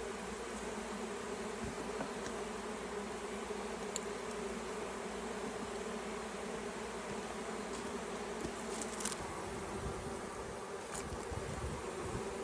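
A swarm of honeybees buzzing, a steady dense hum of many bees, with a low rumble joining in during the second half.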